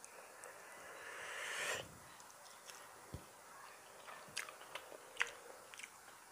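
Close-miked mouth sounds of a man eating rice and curry by hand: chewing with scattered short wet clicks and smacks. A rising rush of noise builds from about a second in and cuts off sharply just before two seconds.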